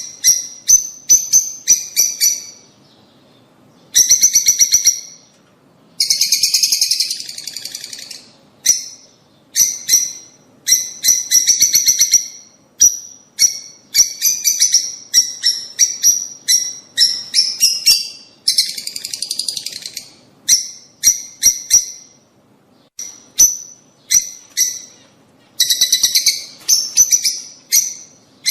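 Lovebirds, rosy-faced and Fischer's, calling: quick runs of sharp, high-pitched chirps, broken by several longer bursts of buzzy chatter lasting a second or two.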